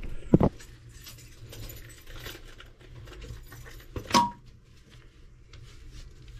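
Loose screws and small metal hardware clinking and rattling as they are sorted through by hand, with sharp clicks at the start and a louder metallic clink about four seconds in that rings briefly.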